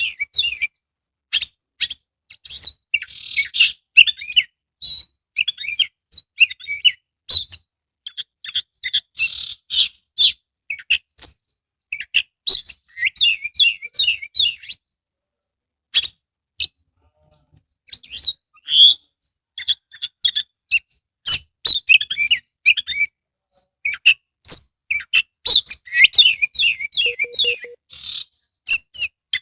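Oriental magpie-robin (kacer) singing vigorously: fast bursts of varied whistles, trills and sharp clicking notes, broken by short pauses, with a longer lull about halfway through.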